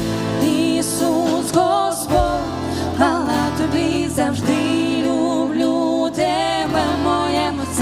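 Christian worship song played by a band: a sung melody with vibrato over sustained chords and bass, with cymbal strokes.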